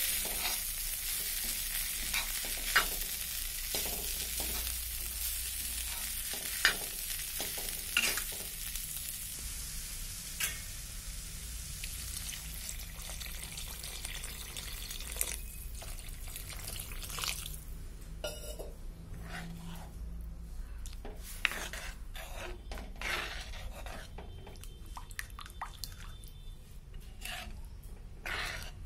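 Food sizzling in hot oil in a metal kadai, with a steel spatula scraping and clicking against the pan as it is stirred. The sizzle fades about halfway through, after water is poured in, and the stirring clicks go on.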